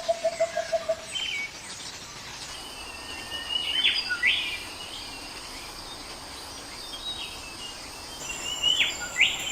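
Birds calling: a rapid run of low, even pulsed notes stops about a second in. Then come short high chirps and quick sharp sweeps in two bursts, one near the middle and one near the end, over a steady background hiss.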